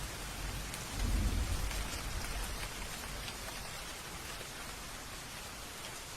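Steady rain falling, with a low roll of thunder that swells about a second in and fades away over the next few seconds.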